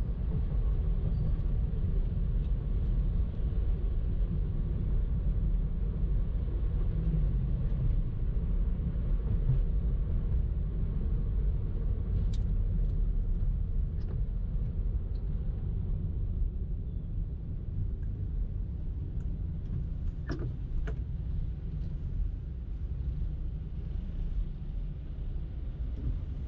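Car driving in traffic: a steady low rumble of engine and road noise, easing slightly about two-thirds of the way through, with a few faint clicks.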